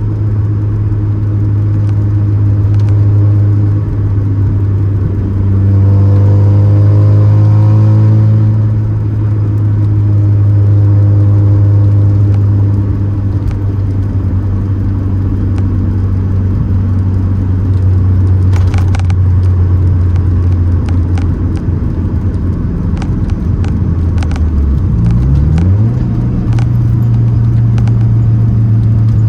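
Mazda RX-7's 13B rotary engine running steadily at a constant speed. About 25 seconds in, the revs drop and climb back up, as in a gear change, with a few sharp clicks a little earlier.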